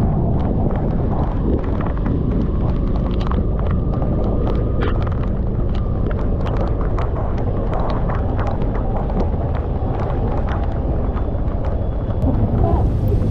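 Wind buffeting the microphone of a motorcycle ridden through heavy typhoon rain, with many sharp ticks of raindrops striking it. About twelve seconds in, the sound turns brighter and hissier.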